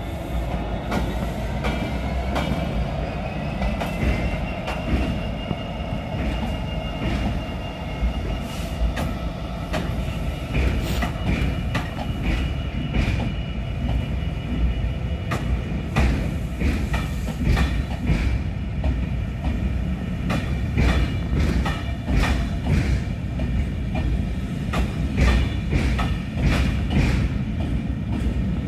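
A passenger train passing close by: a Class 66 diesel locomotive hauling the Royal Scotsman's carriages, with a steady heavy rumble throughout. A tone rises in pitch over the first few seconds. After that the carriage wheels clack repeatedly over the rail joints, the clacks coming thickly for the rest of the pass.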